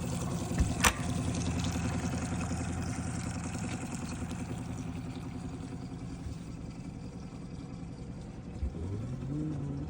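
Motorboat engine running steadily, with one sharp click just under a second in.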